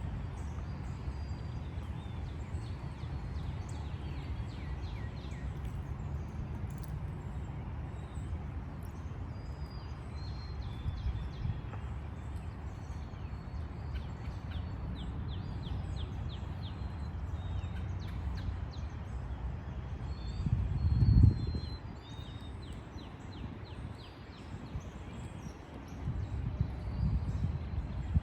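Small birds chirping on and off over a steady low outdoor rumble, with one louder low thump about twenty seconds in.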